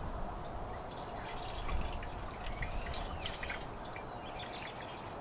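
Diesel fuel being poured from a jug into a two-stroke dirt bike's fuel tank: a quiet, steady trickle with a few small clicks.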